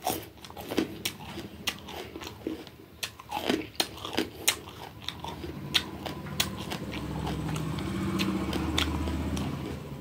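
Raw bitter gourd being bitten and chewed, with many sharp crisp crunches and wet mouth clicks. A low steady hum joins in for a few seconds in the second half.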